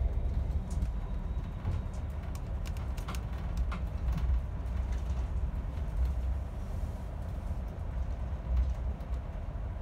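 Passenger train running on the rails, heard from inside the carriage: a steady low rumble with a few faint clicks about three to four seconds in.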